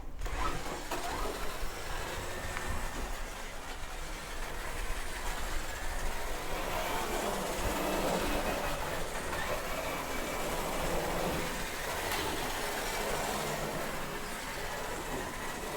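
Remote-control toy cars driving about: electric motors and gears whirring and wheels rattling over rough ground, a steady wavering noise.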